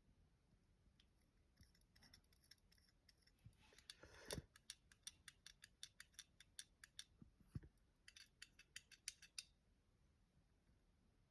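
Faint small clicks and taps from a Take-n-Play Elizabeth toy lorry being handled, a quick run of several a second from about three and a half seconds in to about nine and a half, with two louder knocks among them.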